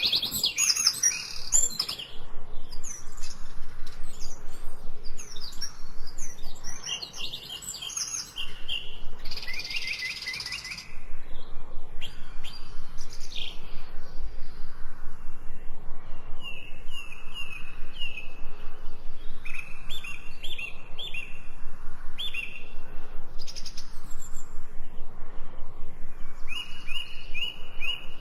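Several songbirds singing and chirping together, with overlapping warbled phrases and runs of quick repeated high notes.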